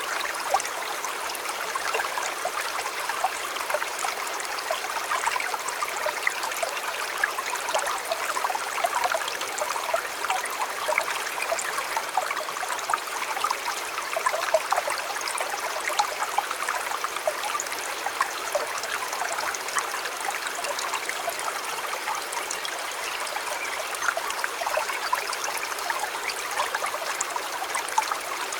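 River water flowing steadily, an even rushing sound with many small splashes running through it.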